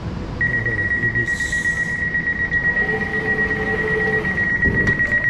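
Elizabeth Line train sound: a steady high-pitched tone begins about half a second in and holds for about five seconds, turning pulsing near the end, over a low rumble. A short hiss comes about a second and a half in.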